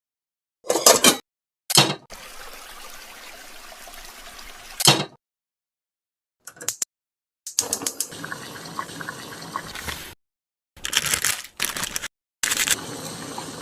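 Water running, as from a tap, in several separate stretches of a few seconds each with abrupt starts and stops, broken by short louder bursts.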